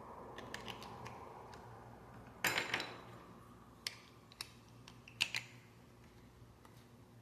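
Lego bricks clicking and rattling as they are handled and pressed together: a short burst of rattling about two and a half seconds in, then a few single sharp clicks.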